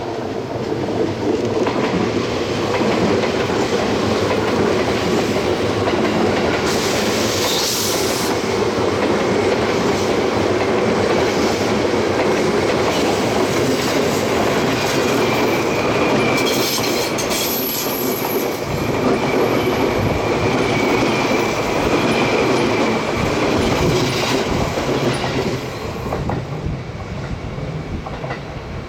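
A Seibu 2000 series electric commuter train passing at close range. Its wheels clack over the rail joints with a steady rumble that builds about a second in and fades near the end. A thin high tone rides over the rumble through the second half.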